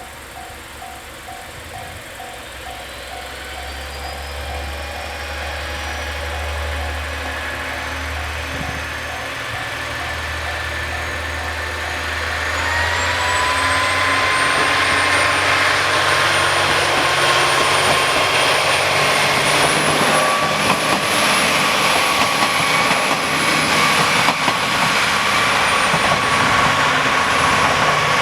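KiHa 47 diesel railcar pulling away under power: its engine and transmission whine rise in pitch and grow much louder about halfway through, then run on loud with a steady high whine. For the first dozen seconds a level-crossing alarm sounds in a fast on-off beeping rhythm, then stops.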